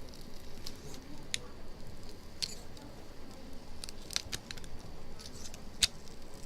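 Plastic protective film being handled and pressed onto an iPhone 6 Plus LCD's polarizer by hand: scattered short, sharp clicks and crackles, about seven of them at irregular intervals over a faint background.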